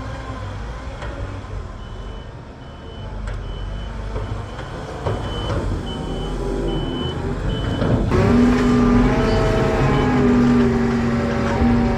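Farm machine engine running while its reversing alarm beeps at an even pace. A little past halfway the engine gets louder, with a strong steady hum.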